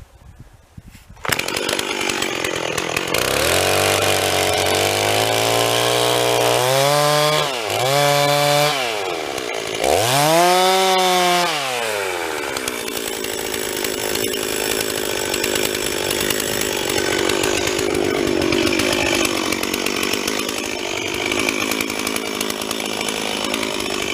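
Two-stroke chainsaw starting up about a second in, revving up and down several times, then running steadily at full speed as it cuts, finishing the felling cut on a tree.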